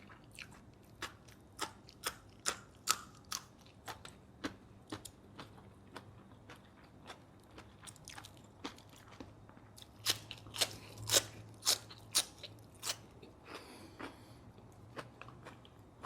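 Close-miked chewing and biting of grilled pork neck salad, with sharp wet mouth clicks and crunches about twice a second, growing louder about ten seconds in.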